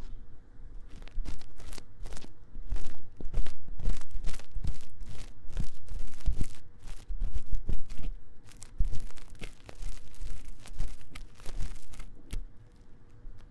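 Ear-cleaning tool scratching rapidly and vigorously inside the silicone ear of a 3Dio binaural microphone, a run of quick rough scraping strokes, two or three a second, that starts about a second in and tapers off near the end.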